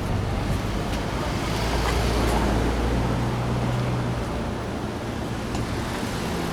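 Road traffic: vehicle engines running with a steady low hum over a noisy background.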